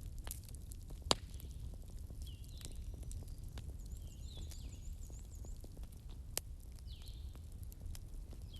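Fireplace fire crackling: a steady low rumble with scattered sharp pops, the loudest about a second in and another at about six and a half seconds.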